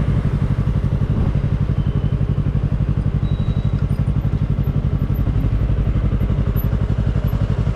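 Yamaha R3 motorcycle's parallel-twin engine running steadily at a constant pitch, with a rapid, even exhaust pulse.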